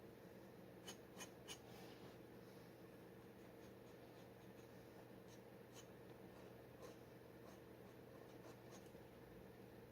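Faint scratching and ticking of a steel G-nib dip pen drawing on paper, with three sharper ticks about a second in and scattered lighter ones later, over a low steady hum.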